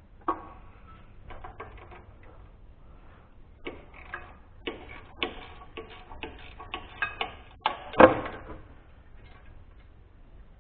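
Irregular metallic clicks and clanks of hand tools and engine parts being handled, a few at first and then a quicker run of them. The loudest clank comes about eight seconds in.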